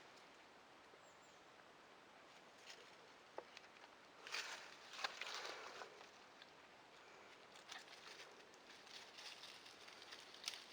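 Mostly near silence with a few faint light clicks. About four seconds in there are two seconds of louder rustling, the sound of movement over dry forest-floor leaves.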